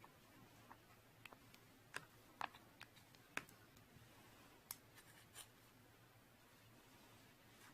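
Slime being played with by hand: faint, scattered clicks and small pops, about a dozen in the first five seconds, then near silence.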